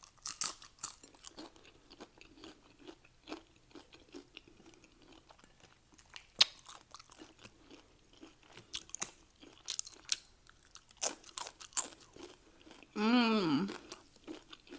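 Close-up crunching and chewing of Doritos tortilla-chip nachos, in irregular crisp crunches. A brief vocal sound comes about 13 seconds in.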